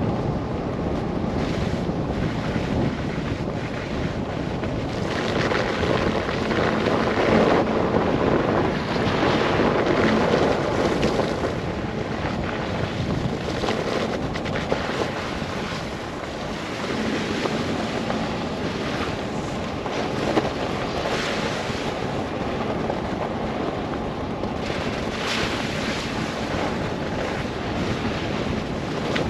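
A car driving through a snow blizzard: steady wind and road noise that swells louder in gusts and then eases, with a single sharp tick about two thirds of the way through.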